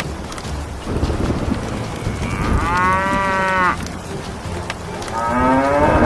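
A cow mooing twice: one call lasting about a second, a few seconds in, and a second call rising in pitch near the end, over a steady low rumble.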